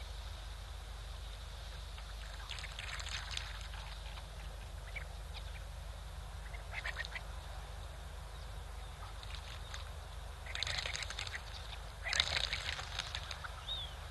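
Bursts of harsh bird calls, a few seconds apart, the loudest near the end, over a steady low rumble of wind on the microphone.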